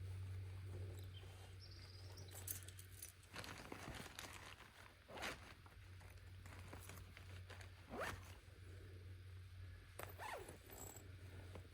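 A zip pulled in about four short strokes spread across several seconds, over a steady low hum.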